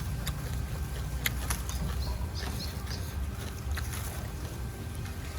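Steady low rumble of wind buffeting the microphone, with a few faint crunching clicks of someone chewing.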